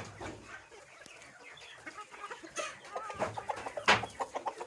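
Desi chickens clucking, with a quick run of short clucks near the end and one sharp, louder sound about four seconds in.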